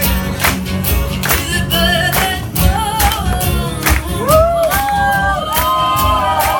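Live band playing an upbeat song with a steady drum beat and bass; a wordless vocal melody comes in about a second and a half in and grows stronger near the end.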